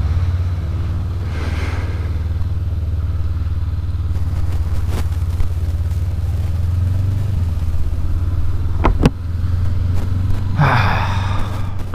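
2019 Honda CB500X's parallel-twin engine running steadily at low revs, a constant low hum. A couple of sharp clicks come about nine seconds in, and a brief rush of noise near the end.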